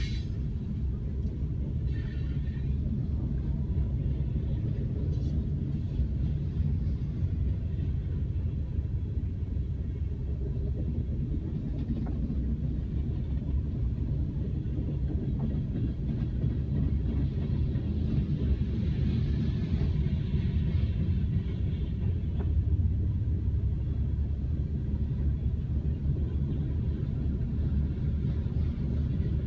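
Freight train of tank cars and hopper cars rolling past at a level crossing: a steady low rumble, muffled as heard from inside a car.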